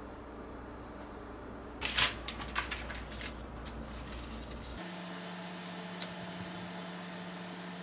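A quick cluster of sharp clicks and rustles, like small objects being handled, over a steady background hum; one more click about a second later.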